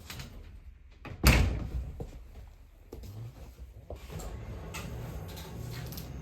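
A door shutting with a single loud bang about a second in, followed by a few faint clicks and knocks.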